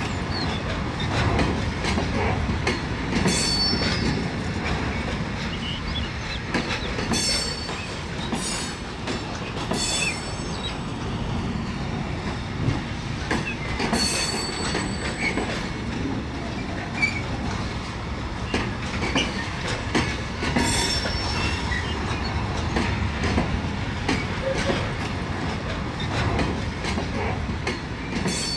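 Freight train wagons rolling slowly past: a steady rumble with many rail clicks, and several brief high wheel squeals.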